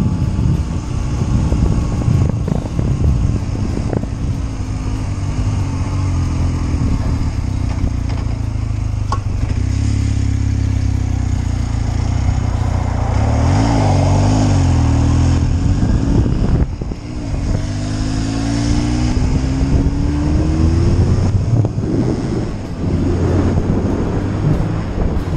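1981 Kawasaki KZ440's parallel-twin engine running under way, with wind rushing over the microphone. The engine note dips briefly twice in the second half and climbs steadily in between as the bike accelerates.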